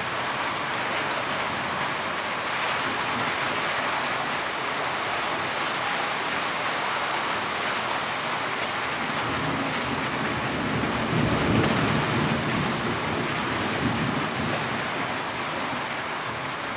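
Steady heavy rain falling, with a low rumble that swells and fades about eleven seconds in.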